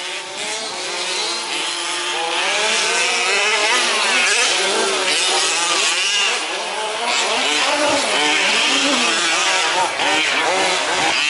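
Several 1/5-scale RC trucks' small two-stroke petrol engines buzzing at once, each revving up and down on its own so the pitches overlap and keep rising and falling.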